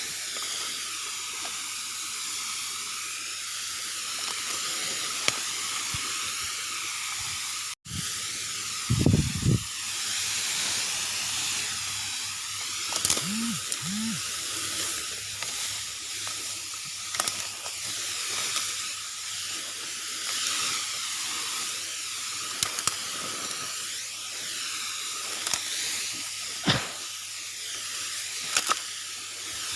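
Steady hiss of a mini engine-driven power sprayer spraying, with a faint low hum under it. The sound drops out for an instant about eight seconds in, and a few short low thumps come shortly after.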